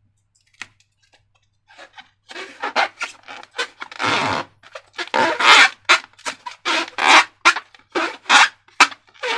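Slime and rubber balloons being squeezed and handled by hand: a run of short squishing, rubbing noises, a few each second. They start faint and grow louder from about two seconds in.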